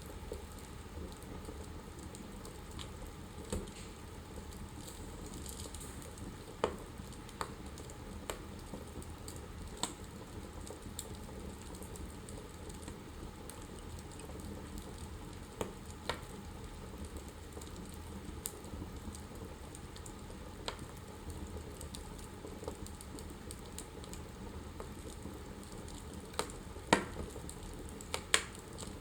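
Wood fire burning in a fireplace, crackling steadily with scattered sharp pops, several louder ones near the end.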